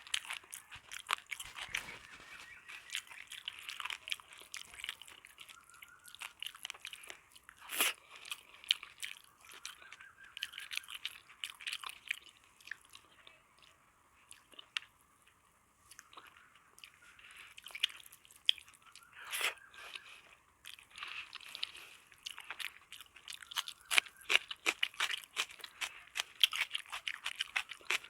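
Close-miked mouth sounds of someone chewing and crunching food: irregular crisp crackles and wet chews, with a quieter pause about halfway through and denser crunching near the end.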